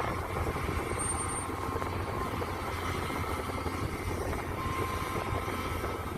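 Mini excavator engine running steadily with a dense low rumble, with a brief knock right at the start and faint high whines now and then.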